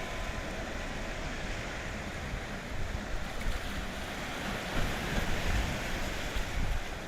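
Wind buffeting the microphone over a steady wash of sea water and waves.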